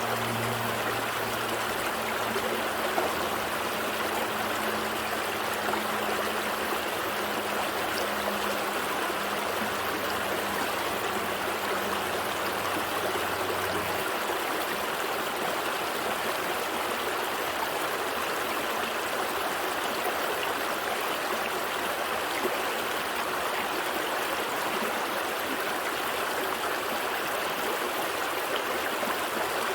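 Gentle stream flowing steadily, an even rush of water. A faint low hum underneath stops about halfway through.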